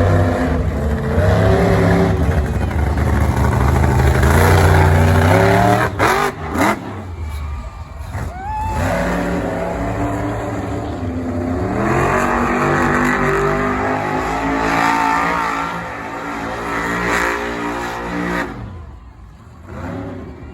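Monster truck engine revving hard, its pitch repeatedly climbing and falling, with a few sharp knocks about six seconds in.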